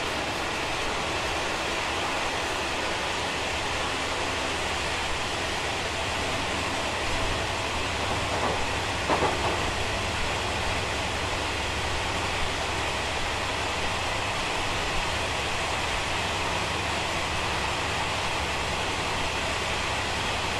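A non-air-conditioned SPK32700-series passenger coach running at about 65 km/h through a tunnel, heard from inside. Wheels on the rails and rushing air make a steady rumble, with a few louder knocks about eight to nine and a half seconds in.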